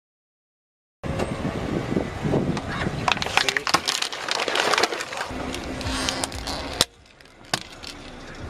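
Crunching and crackling with many sharp cracks, as something brittle is crushed. It starts abruptly about a second in and drops to a few scattered cracks near the end.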